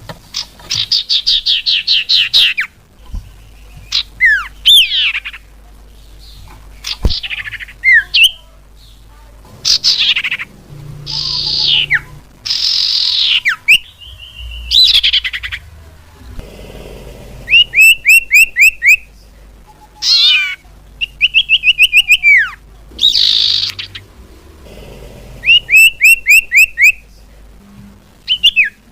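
Common iora (cipoh) calling, as on a bird-lure recording: a varied string of phrases, clear whistles that slide down in pitch alternating with quick runs of short chirps, about eight a second, separated by brief pauses.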